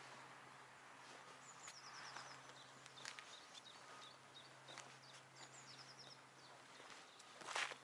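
Small songbird singing a short phrase of quick, high, falling notes, repeated twice, against faint outdoor quiet with a few scattered chirps. A louder rustle or step comes near the end.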